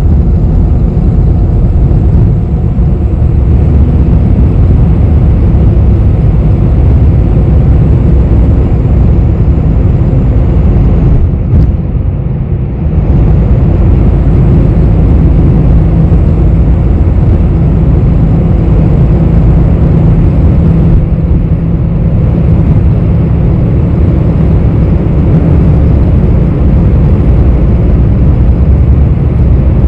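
Cabin noise inside a bus on the move: a steady low engine rumble with road noise. It dips briefly about twelve seconds in.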